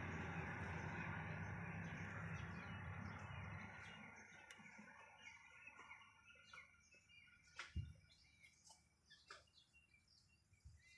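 Birds chirping faintly. A steady low hum with noise fades out about four seconds in, and a few light clicks follow.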